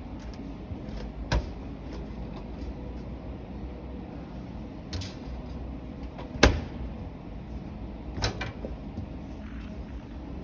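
Front-loading washing machine doors on display models being opened and shut, giving a few sharp clunks, the loudest a little past halfway, over steady shop background noise.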